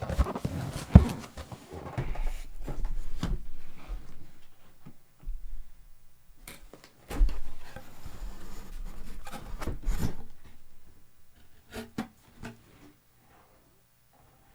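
Cardboard box being opened by hand: flaps and packing rubbing and scraping, with scattered knocks and one sharp knock about a second in. The handling stops near the end.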